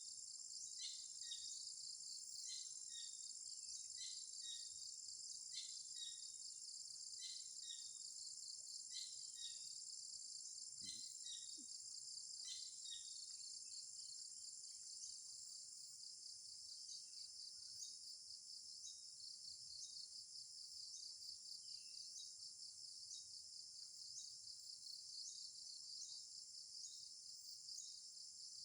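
Dense, steady, high-pitched chorus of insects such as crickets or cicadas. A bird repeats a short call that slides downward about every second and a half through the first half, then fades out.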